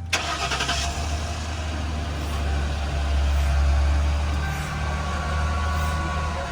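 2003 Lincoln Town Car's V8 engine starting with a short burst of noise and then running with a steady low rumble, louder in the middle seconds.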